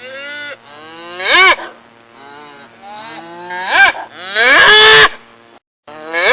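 Cattle mooing: several short rising-and-falling calls, with a longer moo about five seconds in and another starting at the end.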